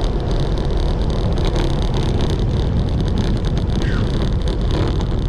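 Steady wind buffeting over the microphone of a road bike rider on the move, with a low rumble from the ride underneath.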